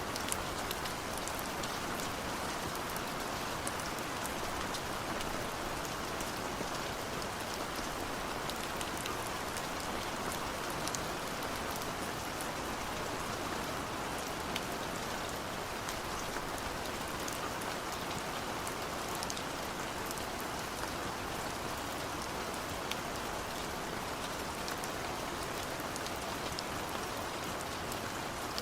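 Steady rain falling, an even hiss with many scattered sharp drop ticks on a surface.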